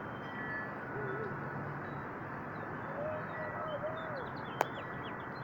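Steady wind noise outdoors, with small birds chirping faintly and soft, low cooing calls about a second in and again from about three seconds in. A single sharp click sounds near the end.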